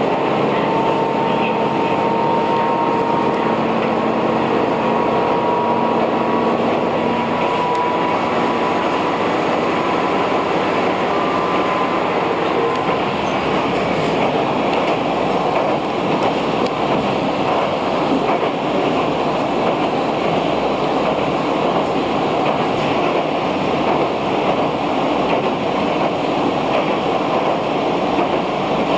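Diesel railcar heard from inside the cabin, running steadily along the line. In the first dozen seconds an engine tone rises slowly as it gathers speed. The running noise then becomes a denser, even rumble as the train crosses a long steel railway bridge.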